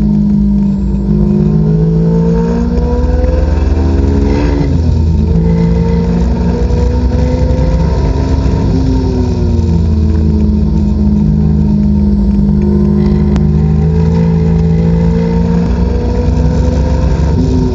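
Supercharged Honda S2000 four-cylinder engine heard from inside the cabin, pulling hard at speed on track with heavy wind and road noise. Its pitch climbs, drops sharply for a moment about four and a half seconds in at an upshift, then climbs again. It falls away and holds steadier through the middle, and rises and drops once more near the end.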